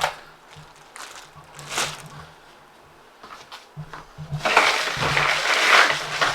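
A sharp clack, a brief rustle a couple of seconds later, then from about four seconds in a loud, crunching rustle of ice and water lasting about two seconds as a processed chicken is pulled out of an ice-filled cooler.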